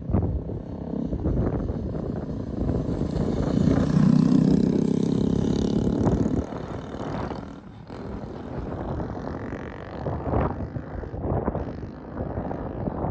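Kawasaki Z125 Pro's 125 cc single-cylinder engine running as the small motorcycle rides past close by, loudest about four to five seconds in and falling away after about six and a half seconds. Wind buffets the microphone throughout.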